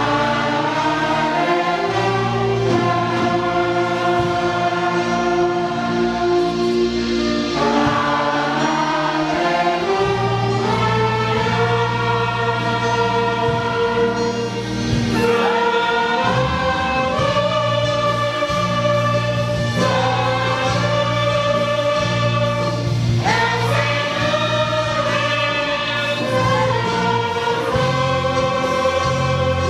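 Hymn played by a church orchestra: full, sustained chords held for a few seconds each before moving to the next, at a steady level.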